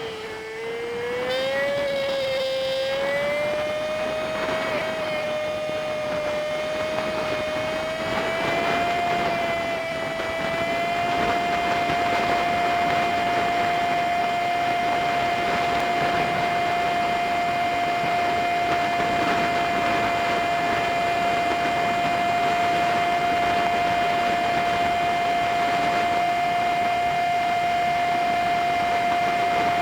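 Honda Super Cub 50 engine and wind noise from a dashcam, sped up five times so the engine note is pitched high into a steady whine. The pitch wavers up and down in the first ten seconds or so, then holds steady as the bike cruises at constant speed.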